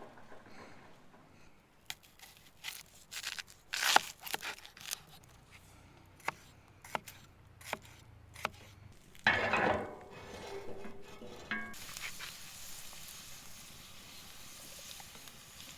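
Cooking utensils clicking and clinking sharply several times, then a loud scraping rush about nine seconds in. From about twelve seconds, food sizzles steadily in a hot pan over the campfire.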